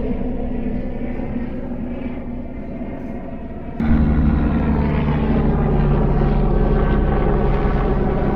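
Steady engine drone with a low hum, stepping up suddenly in loudness about four seconds in and holding there.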